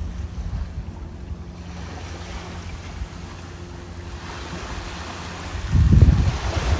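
Ocean surf washing ashore, with a wave breaking into a rising hiss about four seconds in, over a steady low hum. Near the end, wind buffets the microphone in loud low rumbles.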